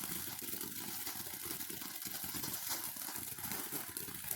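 A lit firework burning with a steady hiss flecked with fine crackles.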